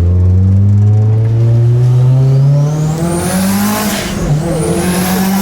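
Tuned 500 hp Mitsubishi Lancer Evolution IV's turbocharged 2.0-litre four-cylinder accelerating hard. The engine pitch climbs steadily, drops at a gear change about two and a half seconds in, then climbs again, with a high rising whine over it.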